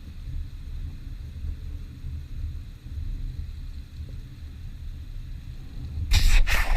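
Wind buffeting the microphone: an uneven low rumble with faint hiss, and a louder, harsher gust about six seconds in.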